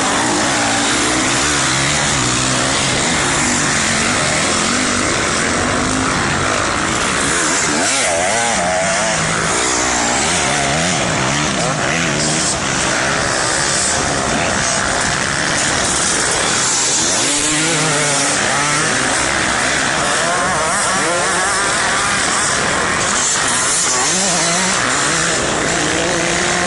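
Motocross dirt bike engine revving up and down again and again, its pitch rising and falling with the throttle and gear changes, over a constant loud rushing noise.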